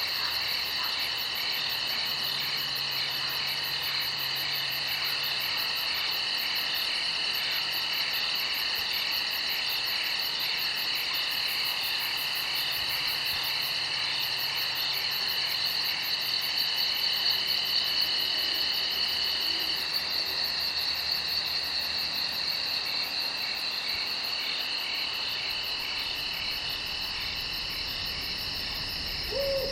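Night chorus of crickets trilling steadily, several at different pitches at once, over a fast, very high pulsing trill.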